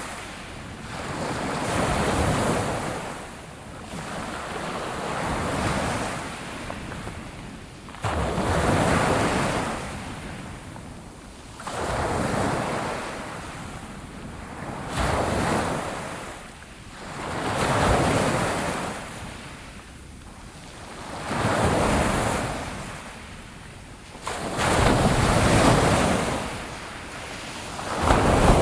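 Ocean waves breaking on a shore, a rushing surf that swells and recedes about every three seconds, some waves crashing in suddenly.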